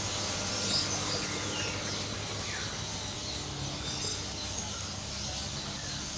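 Caged songbirds chirping and calling in a bird shop, many small calls overlapping, over a steady low hum.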